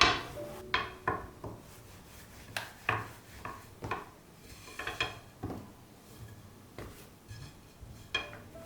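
Kitchen utensils and dishes clinking and knocking against each other, a dozen or so irregular sharp strikes, some with a brief ringing.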